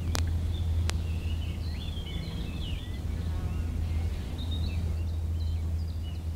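Birds chirping outdoors over a steady low hum and hiss from an old film soundtrack.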